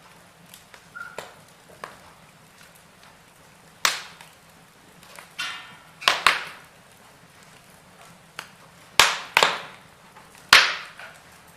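Wood fire crackling in a fireplace: burning logs give a handful of loud, sharp pops and snaps, some in quick pairs, with smaller ticks between them over a faint steady hiss.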